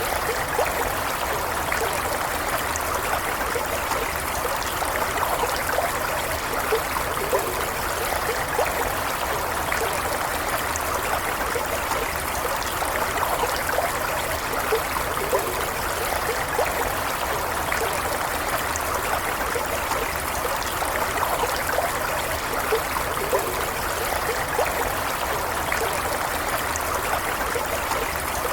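Small stream running steadily, water trickling and burbling over stones, with many small splashes.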